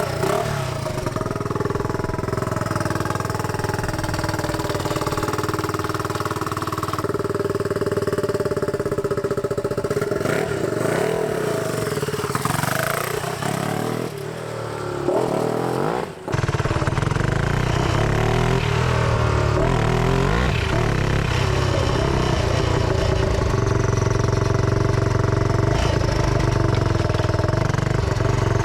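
Turbocharged Yamaha Raptor 660 single-cylinder four-stroke engine of a lawn mower running, revved up and down several times past the middle. After a brief dropout, it settles back into steady running.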